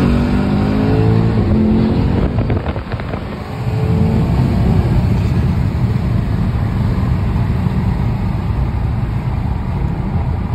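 Modified Mercedes-AMG E63 S twin-turbo V8 accelerating hard, its pitch climbing over the first three seconds. After a short break in the sound it settles into a loud, steady low rumble.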